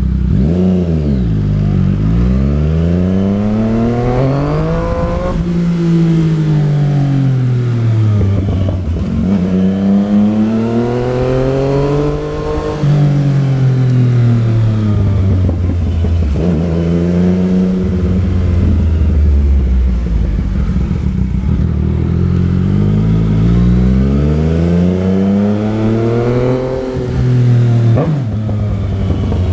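Yamaha MT-09 Tracer's inline-three engine heard while riding, repeatedly accelerating and slowing: its pitch rises over a few seconds, then drops, several times over.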